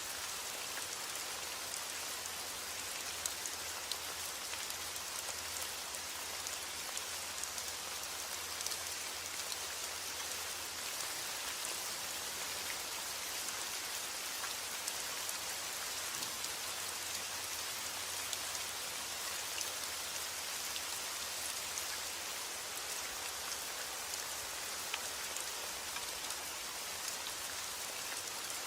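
Steady rain falling: an even hiss with scattered louder drop ticks.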